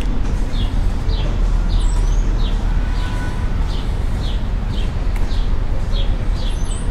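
Small birds chirping repeatedly, short high chirps coming about twice a second, over a steady low rumble.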